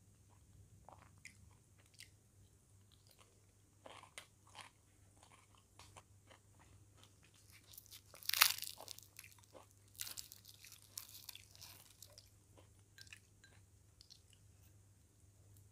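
A person chewing and crunching food with mouth sounds and small crackles throughout, loudest in a crunchy bite about eight seconds in and a second run of crunching a couple of seconds later.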